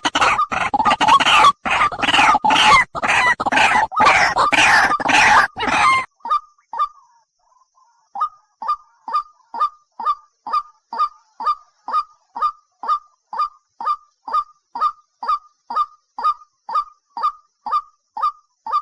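Birds calling: a loud chorus of overlapping harsh, honking calls for about six seconds, then, after a short pause, a single short call repeated evenly just over twice a second.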